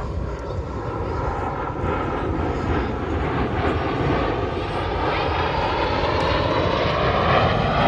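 Fixed-wing airplane engine noise, a steady roar that grows gradually louder as the aircraft approaches, with a slow sweeping change in its tone as it passes.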